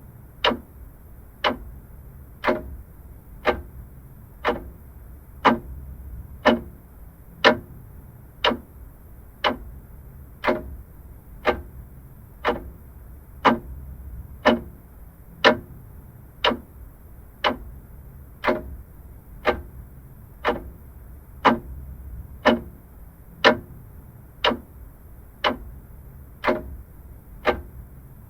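Vintage mechanical clock ticking steadily, about one tick a second, over a faint low hum.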